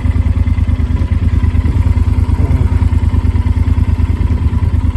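Motorcycle riding along, its engine running under a heavy, fast-pulsing low rumble of wind buffeting the microphone.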